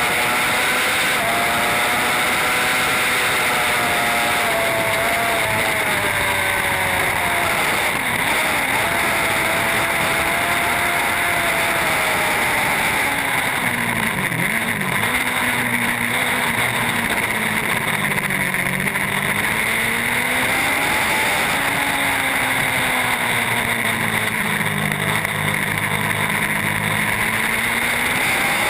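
Racing superbike engine at high revs, its pitch rising through the gears and dropping several times as it slows for corners, over a steady rushing hiss.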